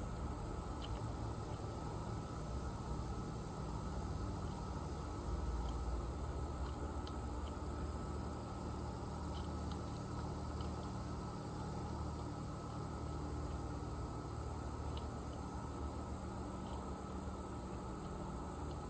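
Insects singing in a steady chorus, one unbroken high-pitched whine, over a low rumble, with a few faint short chirps scattered through.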